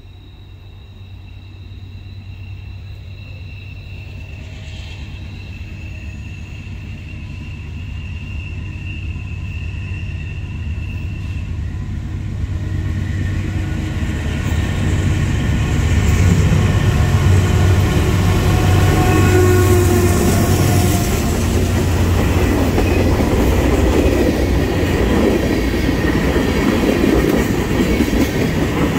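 Norfolk Southern diesel freight locomotive leading an oil train, its engine rumble growing steadily louder as it approaches over about the first 15 seconds. A long string of tank cars then rolls past close by, wheels clattering over the rail joints.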